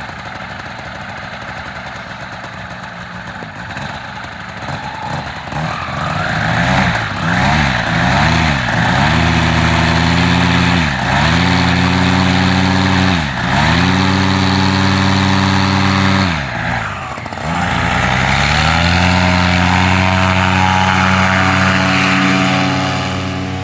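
Model airplane engine idling, then revved up and down in several quick throttle blips and held at high revs, with brief dips and one deep drop in revs about two-thirds of the way in.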